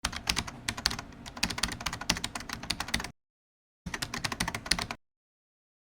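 Rapid typing clicks, about eight to ten a second: a burst of about three seconds, a short dead-silent gap, a second burst of about a second, then silence.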